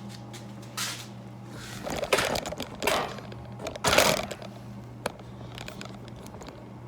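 Hands handling and fitting a part: a few short scraping rustles and knocks, the loudest about two and four seconds in, with a sharp click just after five seconds, over a steady low hum.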